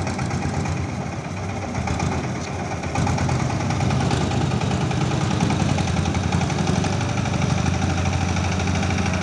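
An engine running steadily with a low, even hum, louder from about three seconds in.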